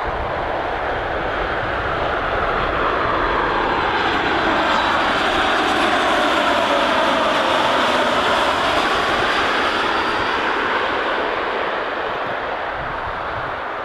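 Boeing 737 MAX 8's CFM LEAP-1B turbofan engines on landing approach, passing low overhead: a steady jet rush that swells to its loudest mid-way and eases toward the end, with a sweeping whoosh that falls and then rises as the aircraft goes by.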